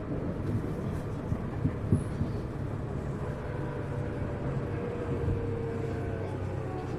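Cabin running sound of a Tokyu 1000 series electric train, recorded in motor car DeHa 1313: a steady rumble of wheels on rail, with a few sharp knocks a second or two in. Faint traction-motor tones come in and fall slightly in pitch over the last couple of seconds.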